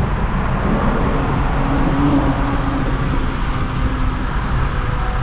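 A car driving, its engine and road noise steady, with a faint low engine tone wavering up and down.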